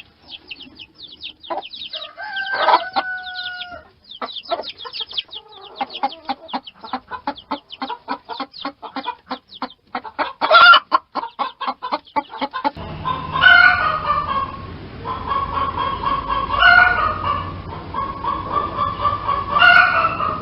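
Chickens clucking in fast runs of short clucks, with one drawn-out call a few seconds in. About two-thirds through, the audio cuts to a rooster crowing three times, about three seconds apart, over a steady background noise.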